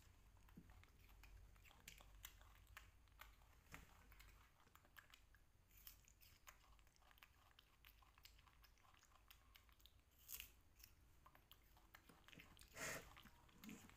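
Faint, close chewing and biting of soft persimmon slices, with many small wet clicks and a couple of louder short knocks near the end.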